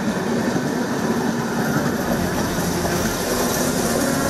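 Passenger train running past on its rails, a steady noise of wheels and coaches.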